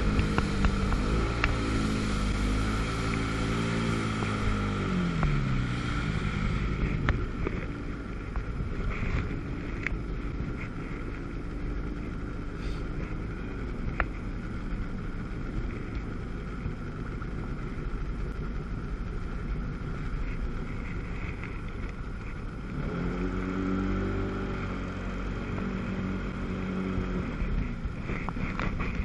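Two-stroke jet ski engine running, its pitch falling as it winds down over the first several seconds. Then mostly wind and water noise, until an engine is heard again about 23 seconds in and holds a steady pitch.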